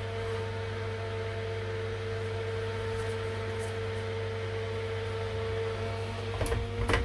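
Steady electrical hum of workbench equipment running, a fan or blower drone holding one pitch, with a few light clicks and knocks near the end.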